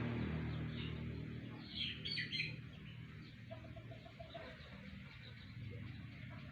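A bird chirps in a short cluster about two seconds in, then gives a run of short notes, over a low steady engine hum that fades away.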